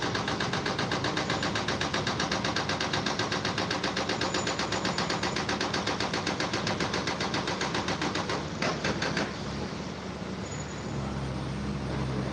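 Rapid, evenly spaced mechanical pounding, about five blows a second, that stops about eight and a half seconds in after a few louder knocks. A low, steady engine hum follows.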